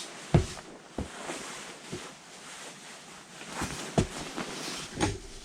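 Newspaper burning inside the firebox of a glass-fronted wood stove at its first firing: a soft rush of flame with half a dozen sharp cracks and knocks.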